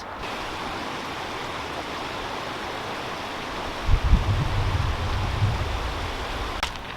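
Steady rush of flowing water, like a creek running over rocks. A low rumble joins about four seconds in.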